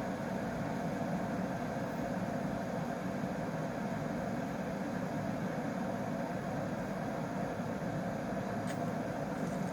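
Steady machine hum of a household appliance's motor running, with two faint ticks near the end.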